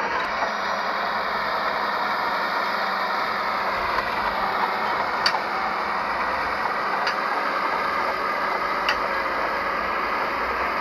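Heavy earthmoving machinery, a bulldozer or dump truck, running steadily with its diesel engine, with a few faint clicks about halfway through.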